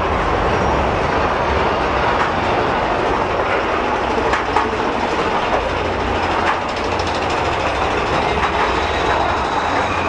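A rail vehicle running along its track: a steady, loud rumble of wheels on rails with scattered clicks.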